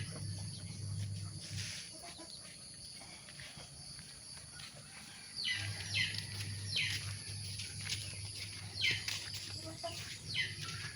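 A chick peeping: several short, high peeps that fall in pitch, mostly in the second half and spaced roughly a second apart, over a low hum.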